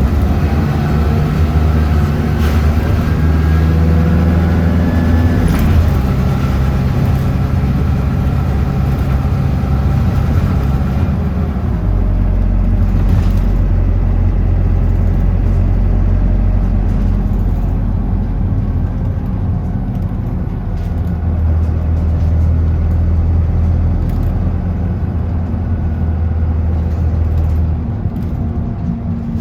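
Route bus running, with a whine that rises in pitch as it accelerates over the first few seconds, then a steady engine drone and road noise as it cruises.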